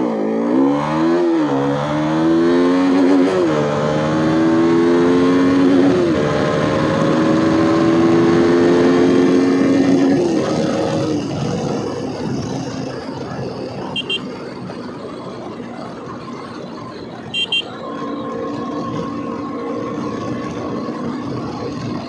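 KTM RC motorcycle's single-cylinder engine accelerating hard through the gears, its pitch climbing and dropping back at each upshift, then easing off about ten seconds in to a steady cruise with wind rush. Two short high double beeps sound in the second half.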